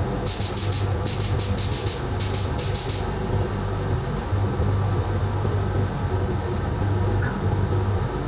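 Air compressor running with a steady low drone, with a quick run of short high-pitched air hisses in the first three seconds as a compressed-air tool is triggered on and off.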